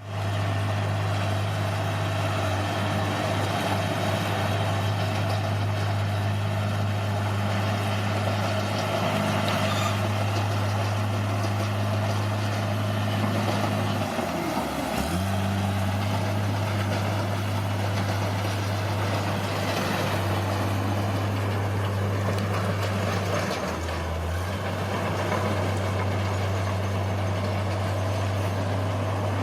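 Bulldozer's diesel engine running steadily under work, its note sagging and recovering briefly about halfway through and again a few seconds later as it takes load.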